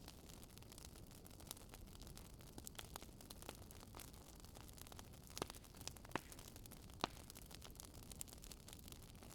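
Wood fire burning: a soft, steady low rumble of flames with scattered sharp crackles and pops, a few louder ones between about five and seven seconds in.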